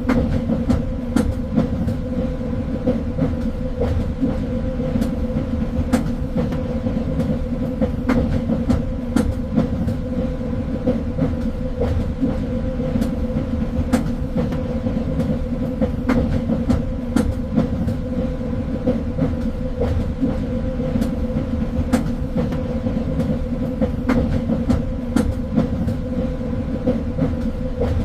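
Train running on rails: a steady rumble and hum with frequent short, sharp clicks of the wheels over the track.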